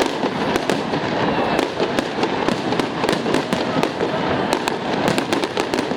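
Fireworks display going off: a rapid, irregular run of sharp bangs and pops over continuous crackling.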